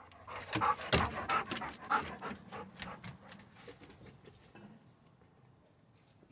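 Dog, excited and trying to get at a bird, making a quick run of short, sharp sounds over the first three seconds, then going quieter.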